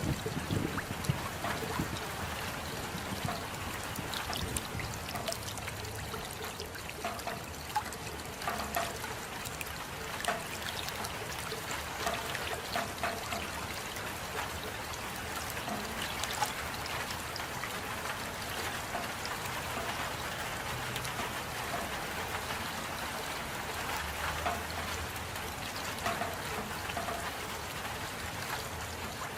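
Steady rain, with many close drops dripping and water trickling.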